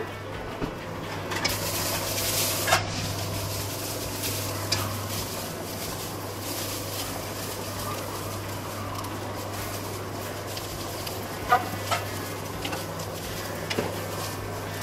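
Sliced onions sizzling in a hot kadai while a spatula stirs them, with a few sharp clicks of the spatula against the pan. A louder hiss rises briefly about two seconds in.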